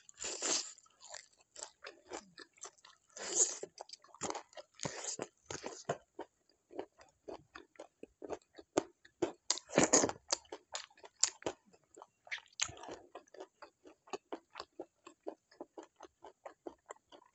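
A person chewing and biting food close to the microphone: a steady run of quick wet mouth clicks, broken by a few louder bites, the loudest about ten seconds in.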